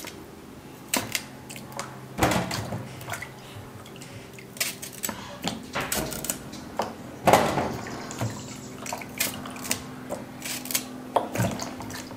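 Cooking bananas (plantains) being washed by hand in a basin of water: irregular splashes and drips, with knocks of the fruit and utensils against the bowl.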